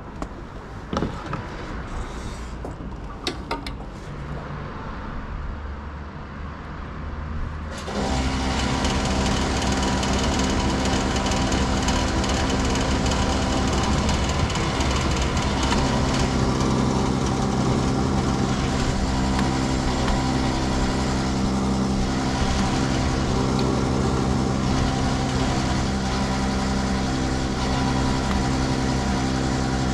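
Motorcycle engine, the Yamaha MT-09's three-cylinder, comes in suddenly about eight seconds in and then idles steadily. Before it, quieter open-air sound with a few sharp clicks.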